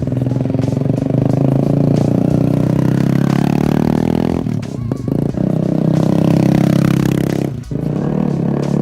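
Kawasaki Z125 Pro's single-cylinder four-stroke engine running through an SC Project replica aftermarket exhaust, being revved. The revs dip briefly about halfway through and again near the end, then come back up.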